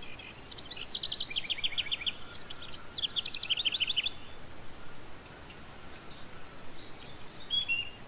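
Small birds chirping: a quick run of short, high, falling chirps about a second in, a second run around three seconds in, then a few scattered calls near the end, over a steady hiss.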